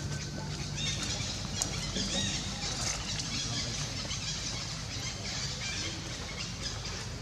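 Many short, high chirps and squeaks from animals, overlapping throughout, over a steady low hum.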